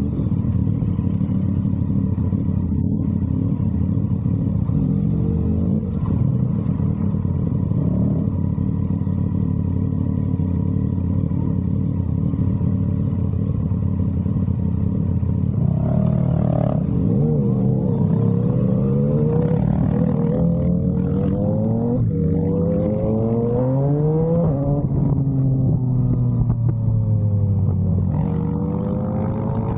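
Yamaha MT-09's three-cylinder engine running through an SC Project aftermarket exhaust, holding a steady note for the first half. About halfway through it accelerates in rising pulls broken by gear changes, eases off with a falling note, and picks up again near the end.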